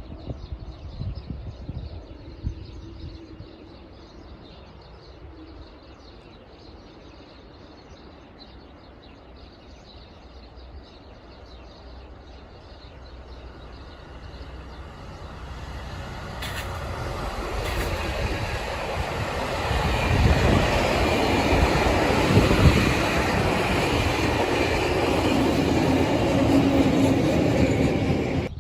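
A train approaches, growing steadily louder from about halfway through, then passes close by with a loud rumble of wheels on rail. The sound cuts off suddenly at the end.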